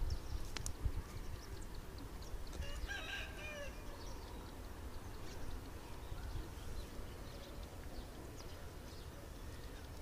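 A single drawn-out bird call about three seconds in, lasting about a second, over a steady low rumble, with a sharp click just after the start.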